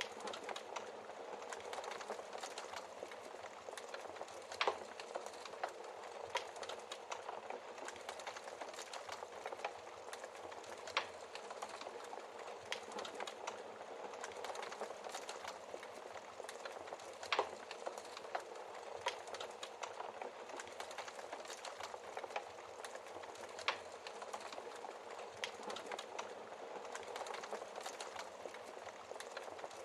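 Wood fire crackling in a fireplace: a steady hiss of burning with frequent small snaps and a few louder pops.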